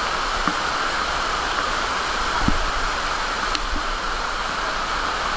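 Steady rushing of a monsoon waterfall, with a couple of faint knocks midway.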